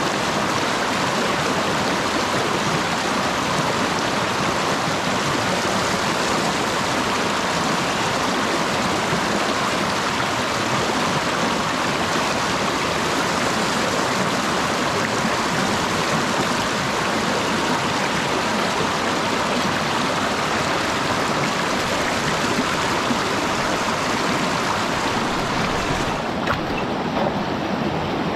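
Mountain stream rushing steadily over rocks, a continuous even water noise.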